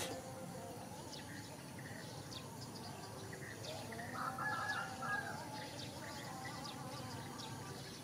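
Birds calling: short high chirps scattered throughout, and a longer call of about a second roughly four seconds in.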